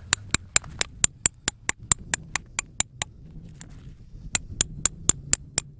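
Hammer striking a metal tent peg, driving it into ice: rapid, evenly spaced metallic taps with a high ring, about four a second, stopping for about a second midway and then starting again.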